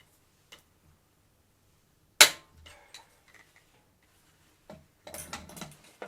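Woodworking sounds from assembling a wooden vent cover: one sharp, loud snap about two seconds in, then a short clatter of knocks near the end.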